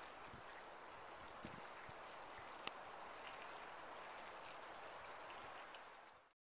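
Faint steady rushing of strong storm wind during a snowstorm, with a few soft thumps and one sharp click about halfway through; the sound cuts off abruptly near the end.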